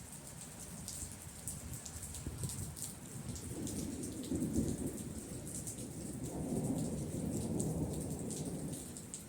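Rolling thunder over steady rain. Raindrops tick sharply on a nearby surface throughout, while a low rumble builds about three seconds in, swells twice and dies away near the end.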